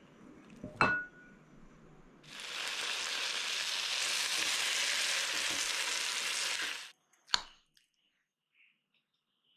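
Marinated chicken leg frying in oil on a tawa, sizzling steadily for about four and a half seconds and then cutting off suddenly. Before it comes a short ringing clink, and a sharp click follows.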